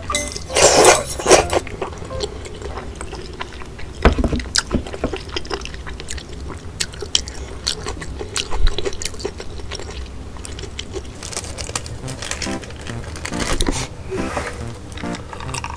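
A person eating close to the microphone: wet chewing and mouth sounds with many small clicks, and a few louder bursts near the start.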